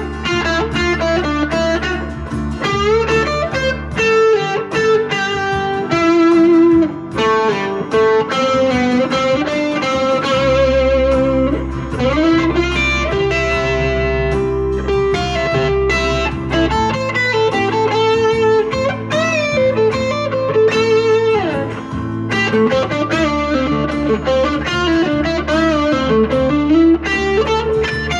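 Single-coil Squier Jaguar electric guitar played through a JHS NotaKlon overdrive into a Vox AC10 amp: improvised lead lines with string bends and vibrato. Underneath, a backing track's low bass notes change chord every six seconds or so.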